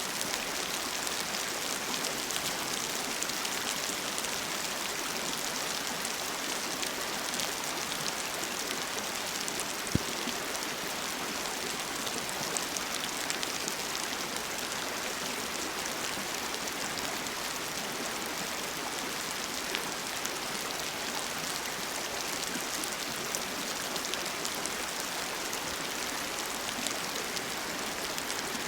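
Steady rain falling outdoors, a dense patter of drops over the even rush of a flowing river, with one sharper drop or tap about ten seconds in.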